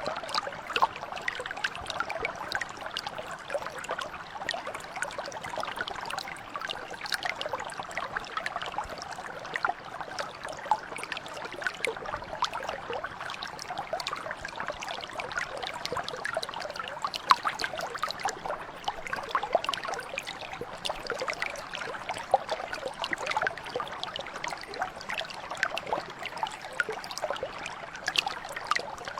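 Shallow mountain brook flowing steadily over stones, a continuous babble with many small splashes and gurgles.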